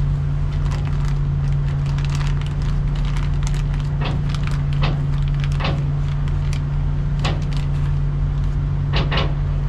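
A steady low engine hum runs throughout, with scattered light clicks and taps from parts and tools being handled.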